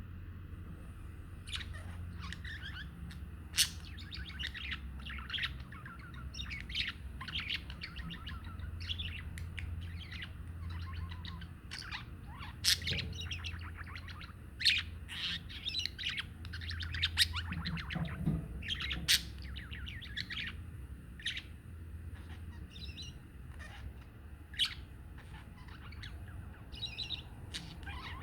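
Budgerigars chattering: a steady stream of short warbling chirps with occasional sharper, louder chirps, over a low steady hum.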